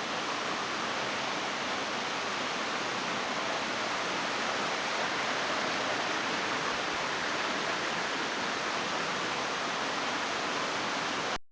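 Water cascading over rock in a small waterfall: a steady, even rushing hiss. It cuts out abruptly for a moment near the end.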